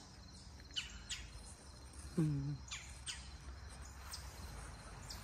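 Small birds chirping: a handful of short, high chirps that fall in pitch, scattered irregularly. About two seconds in comes a brief, low voiced murmur from a person.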